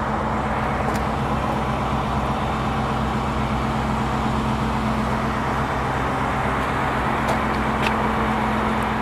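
Ford F-150 King Ranch's V8 engine idling steadily, an even low hum.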